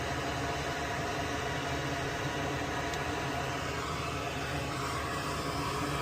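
Steady whirring noise of a small fan, even throughout, with a faint hum.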